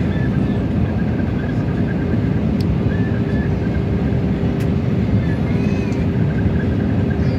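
Airbus A320neo cabin noise in flight: a steady rush of engines and airflow, heaviest in the low range, with a steady hum tone over it.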